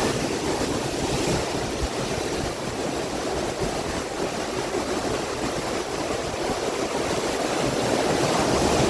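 Sea waves breaking and washing against shore rocks, a steady rushing surf that swells slightly near the end.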